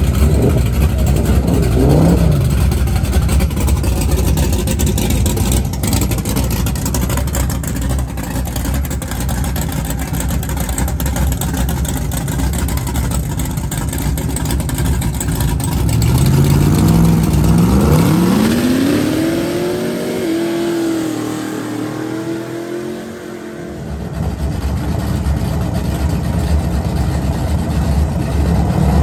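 Drag race car engine running loud with a heavy low rumble, blipped up briefly about two seconds in. Past the halfway point it revs up in a long rising pitch, holds high for a few seconds, drops away, then revs up again at the very end.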